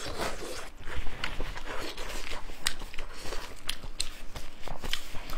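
Chewing and mouth sounds of someone eating, picked up by a close clip-on microphone: irregular sharp smacks and clicks, several a second.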